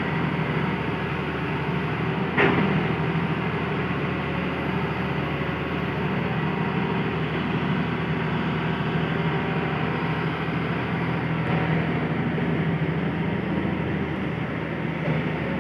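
Hitachi excavator's diesel engine running steadily under work, with a single sharp metallic clank about two seconds in.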